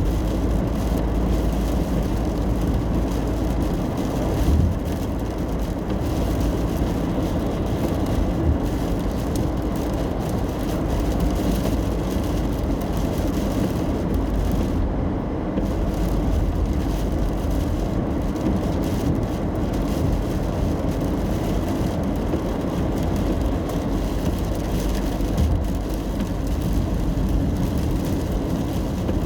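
Steady road and tyre rumble of a car driving in the rain, heard from inside the cabin, with a thinner hiss above it. The hiss drops out briefly about halfway through.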